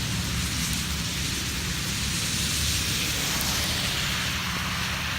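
Small hail pellets falling, a steady hiss with a constant low rumble underneath.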